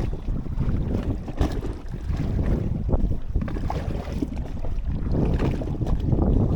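Wind buffeting the microphone over water splashing and lapping against a small boat as it is paddled by hand, with irregular splashes.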